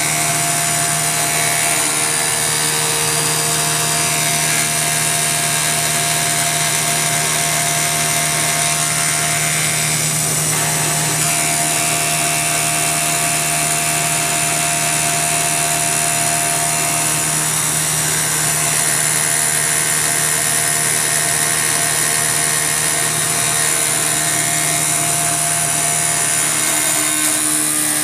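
CNC milling machine with a belt-driven spindle roughing out a part with an indexable insert cutter: a steady, continuous cutting noise with a constant whine.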